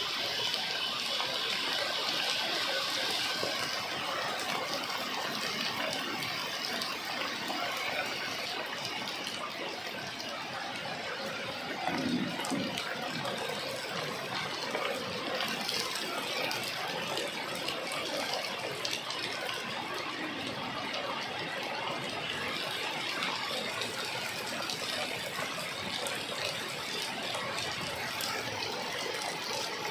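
Heavy rain falling steadily, an even wash of water noise, with a brief louder low sound about twelve seconds in.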